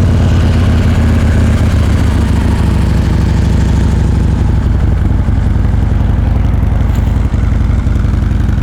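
2016 Harley-Davidson Road Glide Special's 103 cubic inch V-twin idling steadily through its factory exhaust just after a start, a little stronger for the first couple of seconds and then even.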